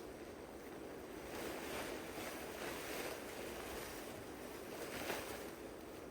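Strong winter wind blowing in gusts across the microphone, swelling and easing, with a few soft rustles mixed in.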